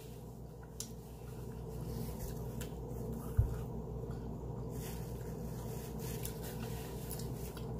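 A person chewing seafood, with faint mouth clicks and small scraping sounds over a steady low hum; one soft thump comes about three and a half seconds in.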